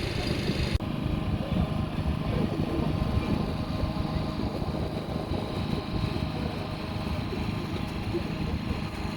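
An engine running with a steady drone and a constant low hum. The sound changes abruptly a little under a second in.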